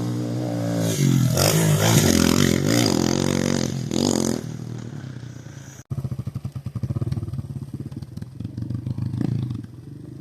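Honda XLS 125 single-cylinder four-stroke motorcycle engine revving up and down for about four seconds, then falling away. After a brief dropout about six seconds in, it runs at a low, pulsing idle.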